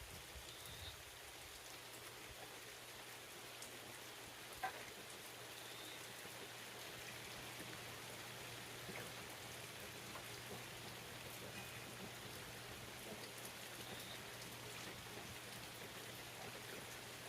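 Steady rain falling, with one sharper, louder tap about four and a half seconds in.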